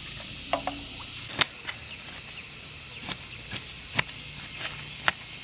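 Steady high-pitched chirring of insects, with a scattering of sharp knocks. The loudest knocks fall about a second apart in the second half.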